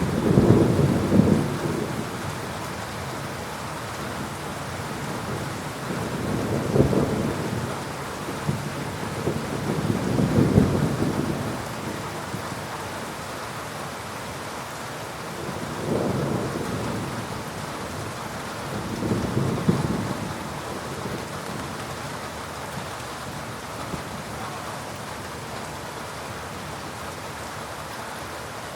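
Heavy rain falling steadily during a thunderstorm, with repeated rolls of thunder rumbling low and swelling up at the start, around 7, 10, 16 and 20 seconds, then only the rain near the end.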